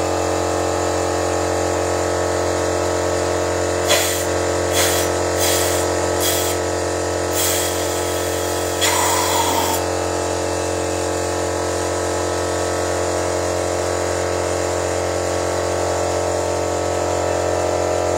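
Suzuki Splash car engine idling steadily while a hose feeds it during engine carbon cleaning, with several short hisses between about four and ten seconds in.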